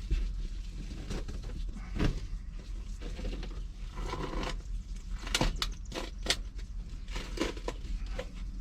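Old car carpeting being tugged and pulled up from the floor: irregular rustling and scraping with a few sharp knocks.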